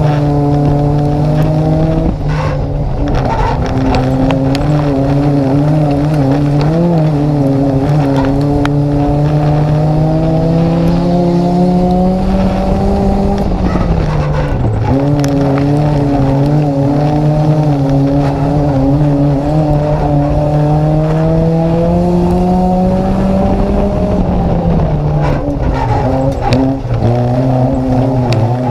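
Nissan Micra race car's engine heard from inside the car, the revs climbing slowly along the straights and dropping sharply twice as it slows for the corners, about ten seconds apart.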